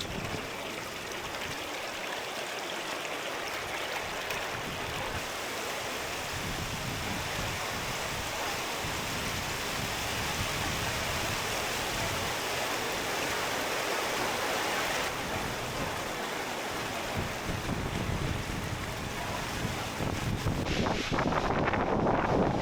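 Steady hiss of rushing stream water, a little louder through the middle. Near the end, louder uneven rumbles of wind on the microphone come in.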